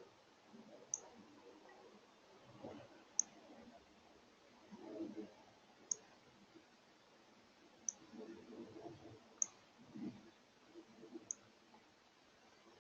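Northern cardinal giving short, sharp, high chip calls, six of them roughly every two seconds, over faint low scuffing and knocking at the feeder.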